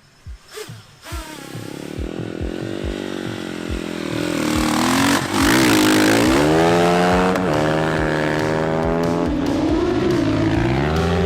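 Dirt bike engine on a ski-equipped water bike pulling away: the revs climb over the first few seconds, jump sharply louder about five seconds in, then hold at high revs with the pitch wavering.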